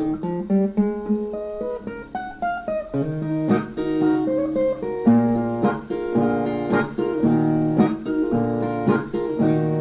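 Brazilian viola, a ten-string guitar, playing an instrumental break of single plucked notes and strummed chords.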